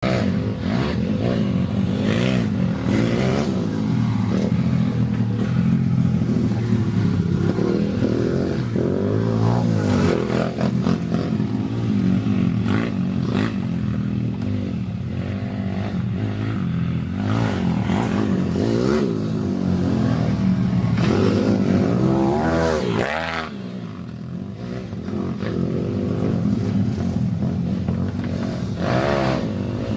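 Dirt bike engine revving up and down repeatedly as it is ridden, the pitch rising and falling every second or two, with a short easing-off a little past the middle before it picks up again.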